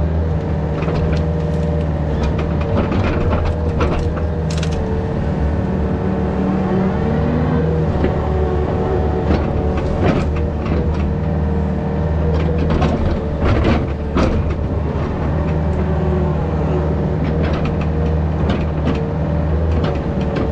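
Yanmar VIO50 mini excavator working: its diesel engine runs steadily under load, with a steady hydraulic whine and scattered knocks and clanks.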